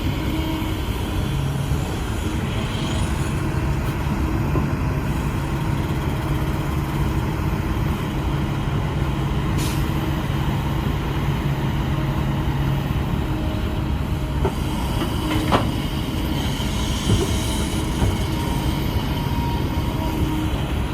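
Heavy earthmoving machinery, an excavator or bulldozer diesel engine, running steadily, with a few sharp metallic clanks about two-thirds of the way through.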